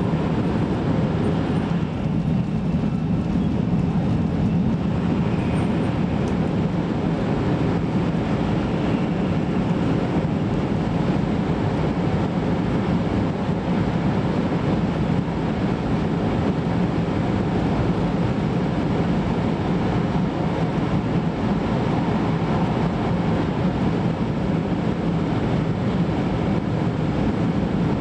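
Steady running noise of a 500 series Shinkansen, heard from inside the car: a constant low rumble of the train travelling along the line.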